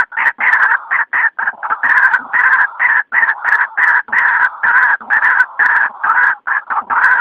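White-breasted waterhen calling loudly, a fast, unbroken run of short, harsh repeated calls, about three a second.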